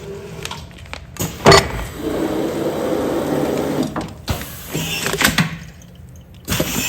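Commercial food-container sealing machine working through its cycle. A sharp clunk comes about a second and a half in, followed by a steady rushing noise and then several more knocks and clicks.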